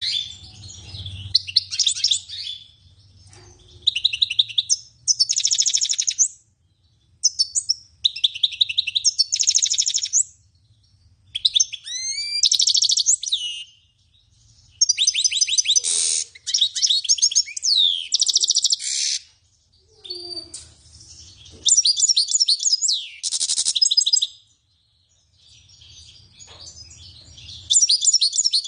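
A songbird singing: repeated phrases of fast high trills and chirps, each a second or two long, with short pauses between them.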